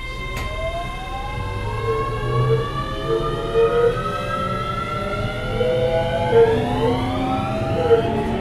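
Keio 7000-series electric train accelerating: the traction motors and their inverter give a whine of several tones that climbs steadily in pitch, over the rumble of the wheels on the rails, with a regular knock from the wheels passing rail joints.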